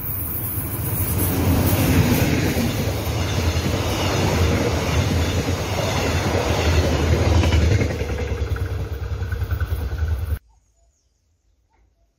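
Mugunghwa-ho passenger train, hauled by an electric locomotive, running past close by: a loud, steady rumble of wheels on rail from the passing coaches. It cuts off suddenly about ten seconds in.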